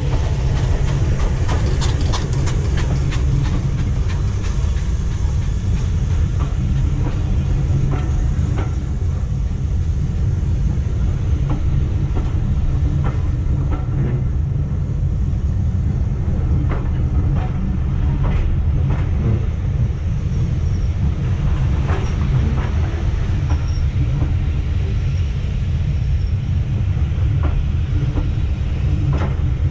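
Train running along the track: a steady low rumble with scattered clicks of the wheels over rail joints.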